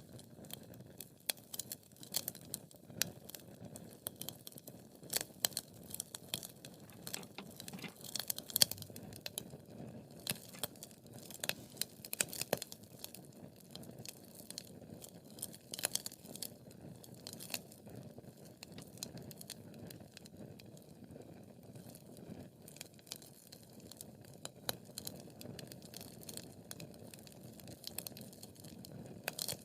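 Wood fire crackling: irregular sharp snaps and pops from burning logs over a soft low rush of flame, with one louder pop about a third of the way through.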